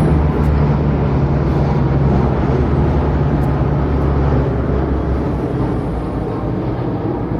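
Military aircraft passing overhead in a flypast: a loud, steady low rumble with a deep hum that eases off after about four and a half seconds as it moves away.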